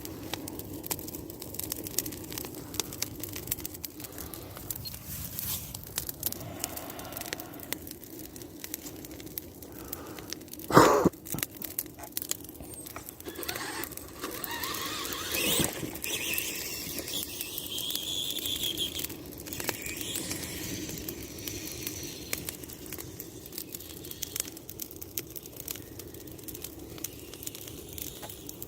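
Bonfire of sticks and grass burning, with a steady run of small crackles and pops. A short, loud pitched sound cuts through about eleven seconds in.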